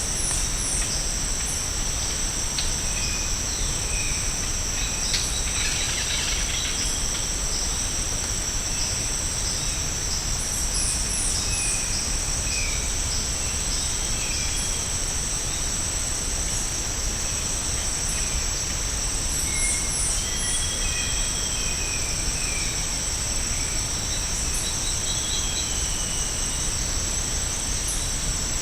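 Tropical rainforest ambience: a steady, high-pitched insect chorus with scattered short bird whistles and calls, and a few quick runs of very high chirps.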